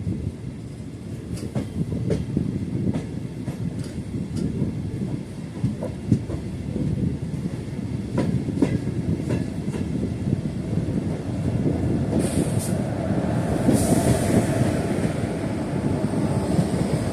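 MEMU passenger train running on the rails: a steady low rumble with irregular clicks of the wheels over rail joints, and a couple of brief high-pitched squeals about two-thirds of the way through.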